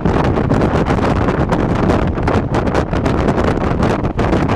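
Strong wind buffeting a microphone held out of a moving passenger train coach, over the train's running noise. The noise is loud and unbroken, fluttering rapidly without a clear rhythm.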